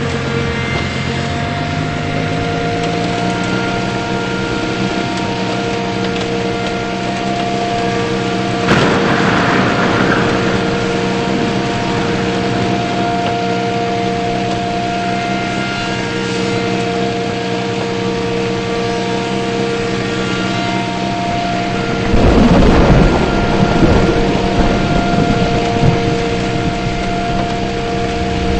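Car engine and road noise holding a steady speed, a constant hum. A louder rushing noise swells briefly about nine seconds in and again from about twenty-two seconds on.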